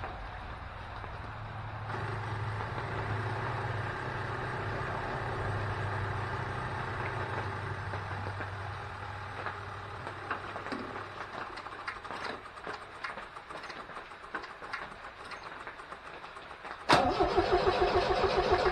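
A low steady hum and then scattered clicks and knocks, until near the end the 1969 MGB GT's four-cylinder engine suddenly catches and runs, loud and fast on the choke from a cold start.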